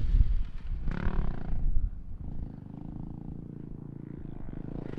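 Dirt bike engine revving hard, then running on more quietly at a steady pitch.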